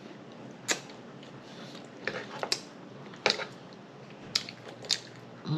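Close-miked eating sounds: wet lip smacks and chewing clicks while someone eats soft, fatty meat, about seven short sharp smacks spread over a few seconds.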